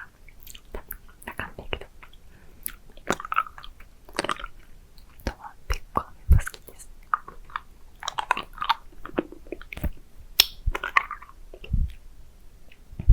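Close-miked mouth sounds of licking and sucking a hard candy: a run of short, wet clicks and smacks at an irregular pace.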